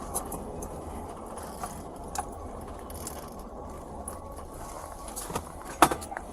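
Steady low background noise with a few scattered sharp clicks or knocks, the loudest one near the end.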